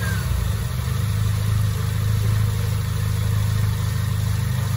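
Peugeot 206 engine idling steadily, freshly started so the newly refilled coolant circulates through the cooling system.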